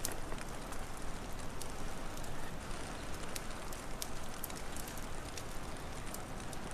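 Wood fire crackling with scattered sharp pops and snaps over a steady low rushing of fire and wind.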